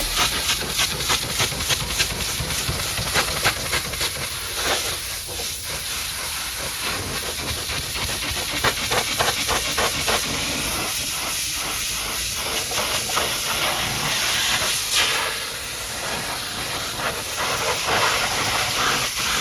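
High-pressure washer jet spraying and blasting mud off a dump truck: a steady loud hiss with crackling spatter.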